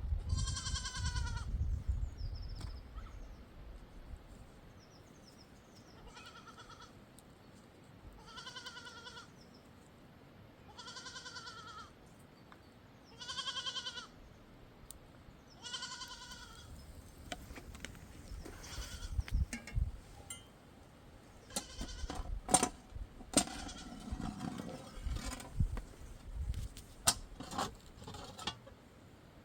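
Sheep bleating: six separate quavering calls a few seconds apart. In the second half come a run of sharp clicks and knocks, the loudest sounds here.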